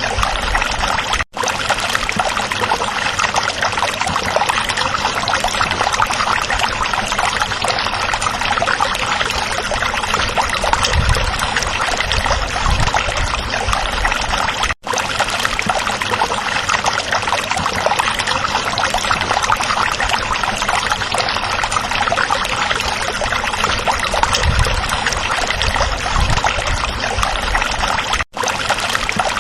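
Steady babbling and rushing of a natural stream's running water, cut off for an instant three times at even spacing, about every thirteen seconds.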